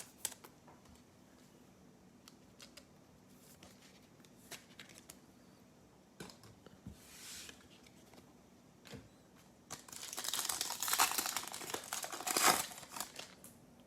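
Plastic wrapper of a trading-card pack crinkling and tearing, loudest from about ten to twelve and a half seconds in, with scattered light clicks and taps before it.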